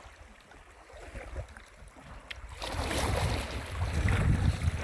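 Water moving around a kayak on the river, quiet at first. About halfway in, wind starts buffeting the phone's microphone loudly over it.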